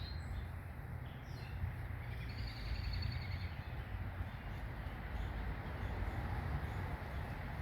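Faint backyard bird chirps, with a short high trill a few seconds in, over a steady low background rumble.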